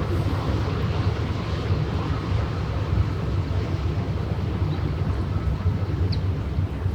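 Steady low rumble of a passing ship's engine out on the water, with wind buffeting the microphone.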